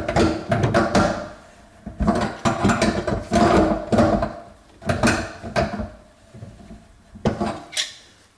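A new kitchen sink basket strainer being tightened: several spells of rattling and scraping of its parts against the sink, with short pauses between them.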